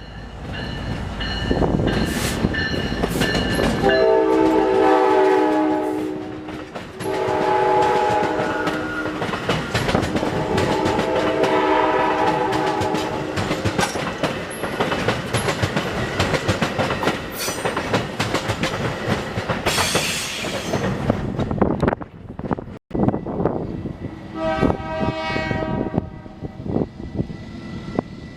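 A passing train sounding its air horn in three long blasts, several notes at once, then a fourth blast after a pause, over the clatter of wheels on the rails.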